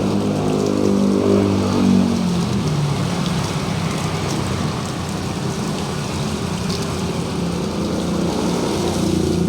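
A motor running under an even hiss like spraying water. Its hum drops in pitch over the first two seconds or so, runs steadily, then rises again near the end.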